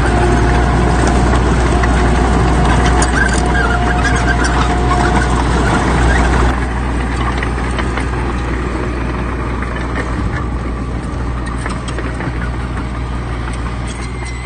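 Heavy diesel earthmoving machinery running steadily, a deep engine rumble with a steady high whine and light clanking over it. About six and a half seconds in the sound drops suddenly to a quieter, duller running.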